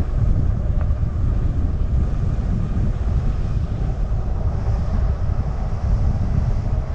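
Steady low rumble of wind buffeting the microphone while riding an electric bike.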